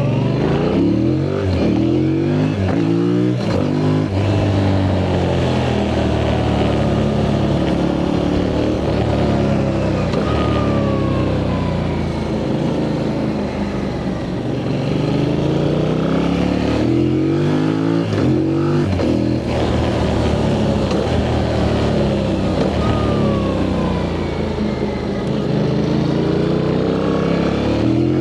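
Yamaha MT-07's parallel-twin engine on its stock exhaust, ridden hard: it revs up through several gears in quick rising steps, eases off with a slow fall in pitch, then pulls through the gears again twice more.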